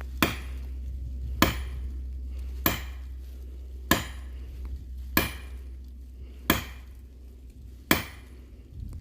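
Heavy blows struck on oak wood at an even pace, seven in all, about one every second and a quarter, over a low steady hum that fades away.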